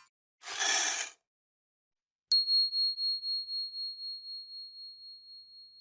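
A short hiss-like whoosh, then a single bell ding about two seconds in: a high ringing tone that pulses and slowly fades over several seconds.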